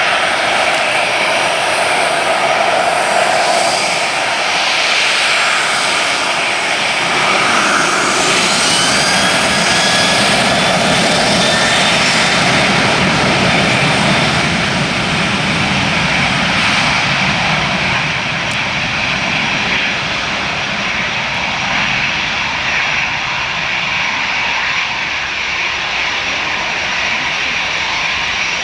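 Boeing 737-800's CFM56-7B turbofan engines running loud and steady. A faint whine glides downward in pitch around the middle, and the sound eases slightly in the later part.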